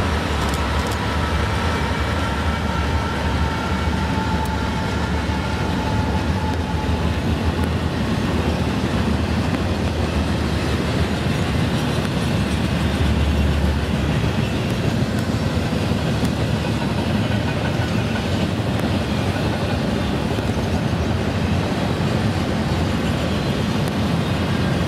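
A diesel-hauled freight train passing close by: its locomotives go past, then double-stack intermodal container cars roll by with a steady low rumble and wheel-on-rail noise. A faint whine falls slightly in pitch over the first several seconds.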